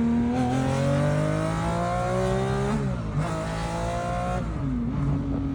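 Sports car engine accelerating hard, its pitch climbing. It dips at a quick upshift about three seconds in, climbs again, and drops at a second shift before settling to a steady drone near the end.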